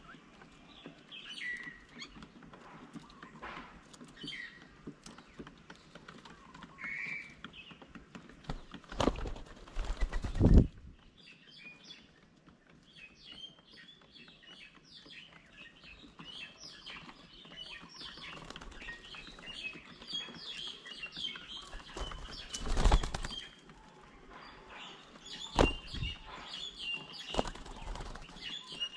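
Birds at a feeding table: many small high chirps and calls that grow busier after the first third, broken by a few loud bursts of wing flapping, the loudest about nine to ten seconds in and again around twenty-three seconds.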